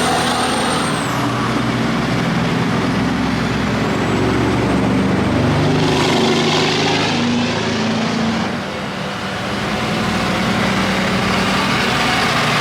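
A truck engine running with road noise, the engine pitch shifting up and down as it drives.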